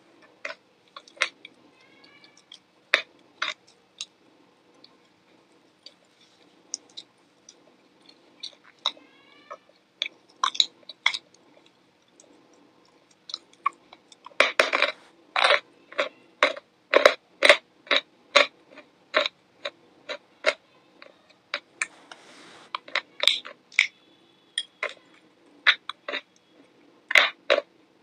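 Close-up crunching and chewing of crisp food: irregular sharp crunches, sparse at first and coming thick and fast through the second half.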